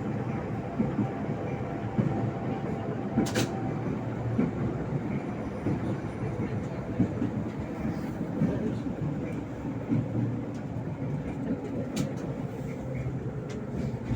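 Tram running along its rails, heard inside the passenger car: a steady rumble with frequent knocks and clicks from the wheels on the track, and a faint steady whine in the first few seconds.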